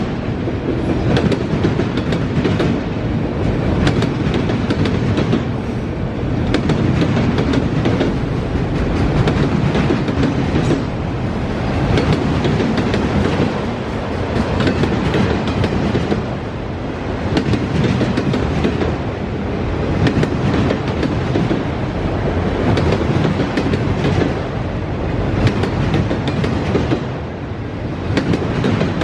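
Freight train cars rolling past at speed: a steady rumble of steel wheels on rail, with a constant run of sharp clacks as the wheels cross rail joints.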